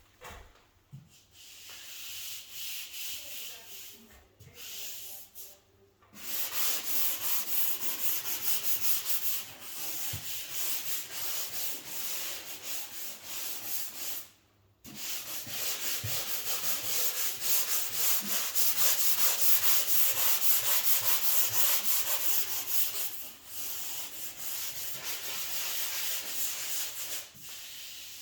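Sanding sponge rubbed back and forth over a dried skim-coat patch on a ceiling, in quick repeated strokes. The sanding is lighter at first, grows heavier, stops briefly about halfway and then carries on.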